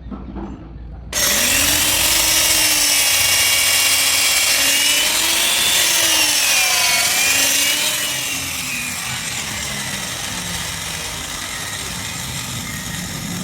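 Electric grinder working steel: a loud hissing grind that cuts in suddenly about a second in, its motor whine dipping and rising as it is pressed to the work. It runs somewhat quieter from about two-thirds of the way through.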